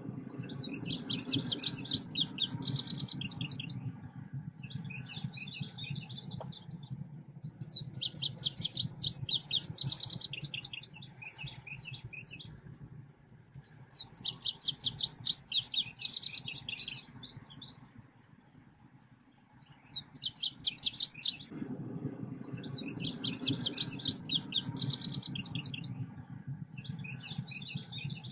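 Selendang biru song: bursts of rapid, high chirping and twittering, each two to three seconds long, repeating about every six seconds. This is a recording used as a lure call for trapping the bird. A low rumble runs underneath during the first few seconds and again over the last seven.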